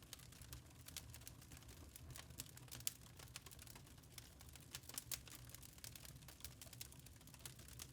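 Wood fire in a fireplace crackling faintly, with irregular sharp pops and snaps, the loudest about three seconds in and again a little after five seconds, over a low steady hum.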